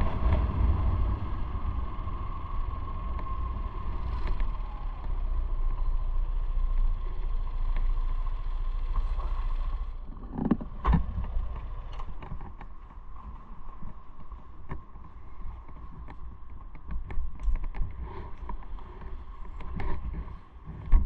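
Motorcycle running, with a deep rumble of wind on the microphone, dropping off about ten seconds in as the bike eases off. After that it is quieter, with scattered clicks and knocks.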